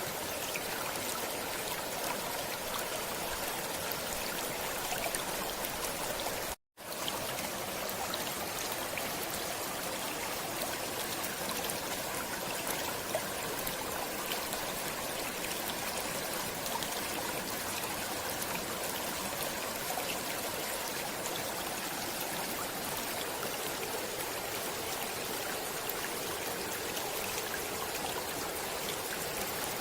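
Stream water flowing and trickling steadily, with a momentary cut to silence about seven seconds in.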